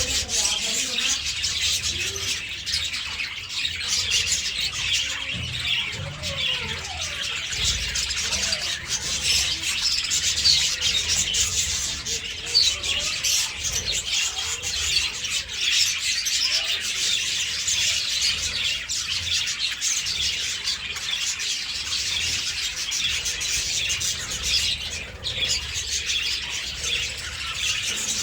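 A flock of budgerigars chattering and chirping, many birds at once in a dense, unbroken warble.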